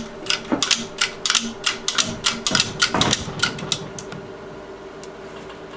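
Quick irregular metal clicks and clinks, several a second, as the ZMZ-402 engine is worked down onto its engine mounts. They stop about four seconds in, leaving a faint steady hum.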